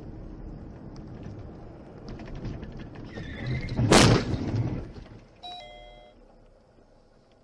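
A road vehicle collision caught on a dashcam: road rumble and a brief squeal, then one loud crash impact about four seconds in. About a second and a half later comes a short electronic tone.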